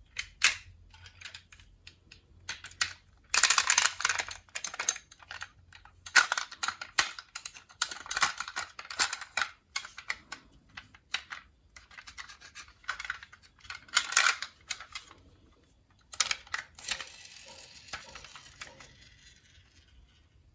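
Marbles running down a HABA wooden marble run: irregular clicks and bursts of clattering as they drop and knock along the track, ending in a smoother rolling sound that fades out.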